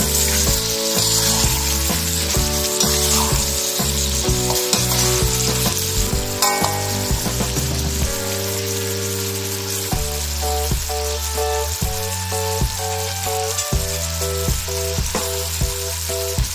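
Chicken pieces sizzling in a sweet soy sauce glaze in a pan, with a spatula stirring them near the start. A plain stepping background melody plays underneath.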